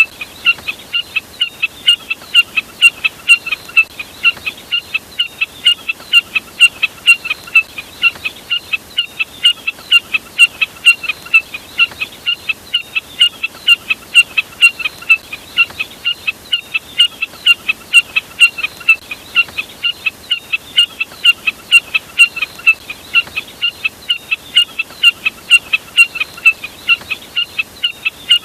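Burcet call, which the uploader names jack snipe, looped as a bird-lure recording: a short, sharp call note repeated about three to four times a second in an unbroken run.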